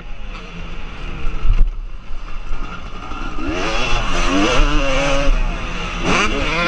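Motocross bikes' engines revving, the pitch rising and falling as they swell up about halfway through and again near the end. A sharp thump comes about a second and a half in.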